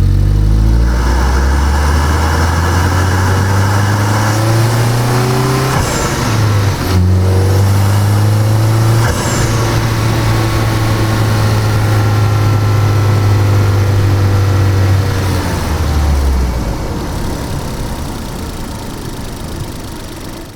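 2013 Ford Focus ST's turbocharged 2.0 L EcoBoost four-cylinder, picked up by a microphone in the engine bay, revved up from idle and held at a steady raised speed, with a brief dip about seven seconds in. The revs fall back toward idle at around sixteen seconds.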